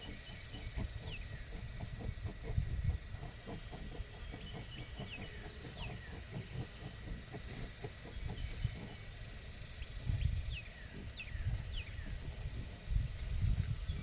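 Pigs grunting and snuffling in short, rough bursts, with birds giving short falling chirps several times.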